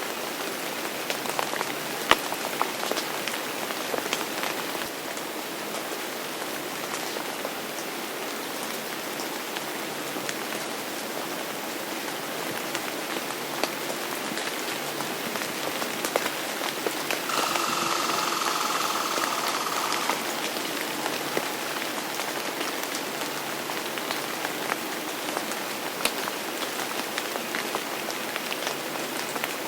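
Steady rain falling, with scattered sharp drops striking a surface. About seventeen seconds in, a louder hiss with a faint steady tone lasts some three seconds, then stops.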